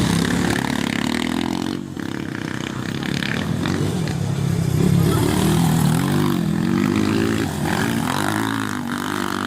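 Motocross motorcycle engine revving, its pitch rising and falling as the throttle opens and closes, with a short dip in loudness about two seconds in.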